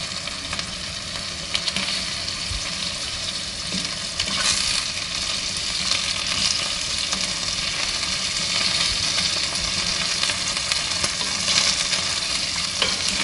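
Scampi (langoustines) sizzling in hot olive oil with garlic in a stainless steel pan as they are turned with wooden utensils. The frying is a steady hiss, with a few light taps of the wood against the pan.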